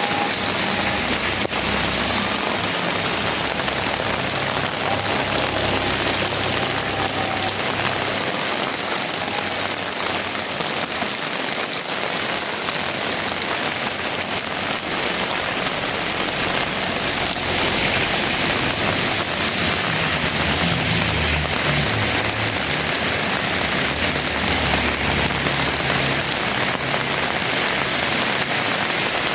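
Heavy rain falling steadily. A low rumble rises under it for a few seconds about two-thirds of the way through.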